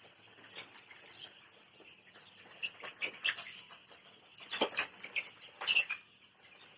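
Chickens calling: many short, high chirps and peeps, busiest and loudest a little past halfway.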